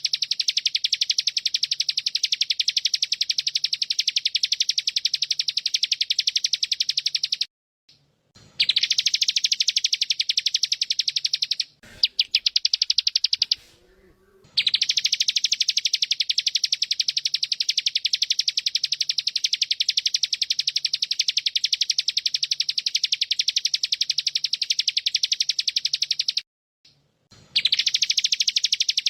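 Bren cicada song: a loud, continuous, very fast pulsing buzz, broken off by short gaps about 8 seconds in, around 12 to 14 seconds, and near the end, with a quieter, different call filling the middle gap.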